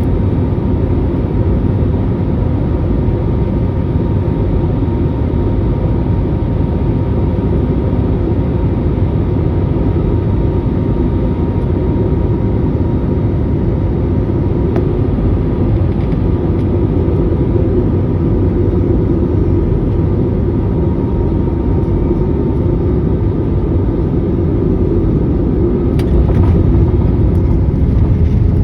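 Airliner cabin noise during the landing: a steady, deep rumble of engines and rushing air with a faint steady whine over it. A sharp click comes near the end, and the rumble grows a little louder after it.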